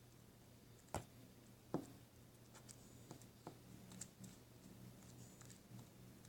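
Near silence with faint handling noises: two short sharp clicks or taps, about one second and nearly two seconds in, then a few fainter ticks, over a low steady hum.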